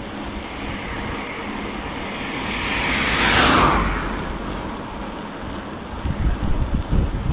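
A motor vehicle passing close at speed on the road, its tyre and engine noise swelling to a peak about three and a half seconds in and dropping in pitch as it goes by. Wind buffets the microphone near the end.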